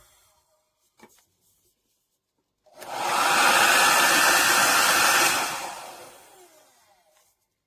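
DEWILY 1800 W ionic hair dryer blowing. A faint click about a second in, then the dryer starts up, runs steadily for a couple of seconds, and is switched off, its motor spinning down with a falling whine.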